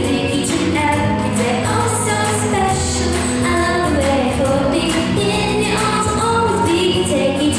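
A female singer performing a song over steady instrumental backing.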